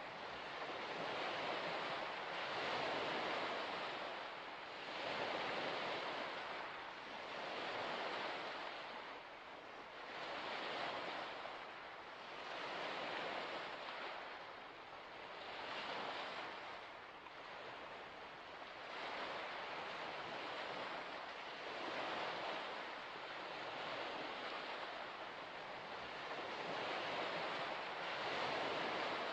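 Small waves washing onto a shore, a steady hiss of water that swells and eases about every two and a half to three seconds.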